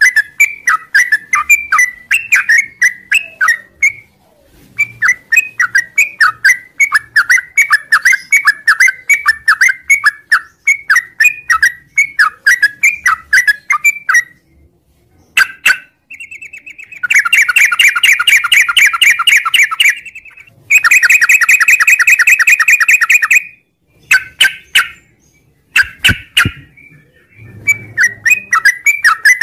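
Sooty-headed bulbul (trucuk) singing loud, repeated short whistled notes. About halfway through these run into two long rapid trills of about three seconds each, the drawn-out 'ngropel' song prized in cage-bird training.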